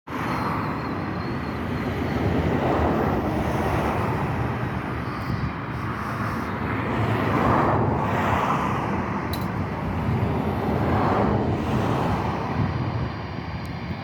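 Jet airliner engines running, an Airbus A320, giving a steady noise with a faint whine and slow swells, with wind buffeting the microphone.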